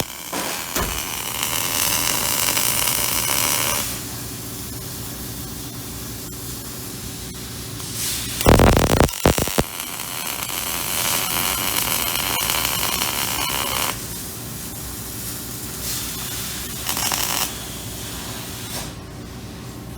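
Cobot MIG welding arc hissing in runs of a few seconds over a steady low shop hum, with a brief louder burst about halfway through.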